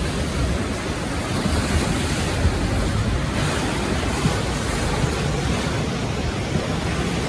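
Steady roar of rushing floodwater from a swollen river, with low rumbling buffets on the microphone.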